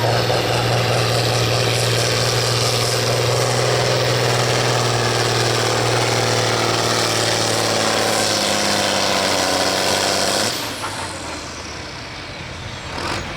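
Hot Stock pulling tractor's diesel engine running hard at a steady high pitch, sagging slightly toward the end. About ten and a half seconds in it drops off sharply, with a falling whistle as the engine lets off.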